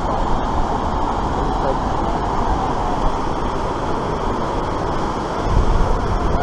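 Steady rushing of churning white water on an artificial slalom course, with wind buffeting the microphone about five seconds in.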